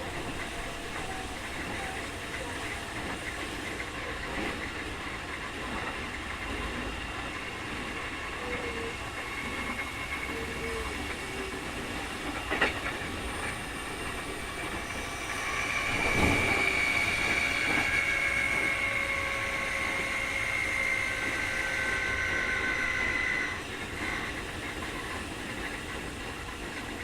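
Keikyu 2000 series electric train with Mitsubishi field-chopper control, heard from inside the car: steady rolling noise with a sharp rail clack. About halfway through, a louder high whine sets in, the car's so-called 'jet sound', an abnormal motor noise. The whine slowly falls in pitch as the train slows and cuts off suddenly about eight seconds later.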